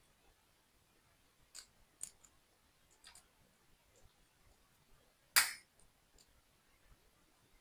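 Plastic toy building pieces being handled and pressed together: a few light clicks, then one much louder snap about five seconds in.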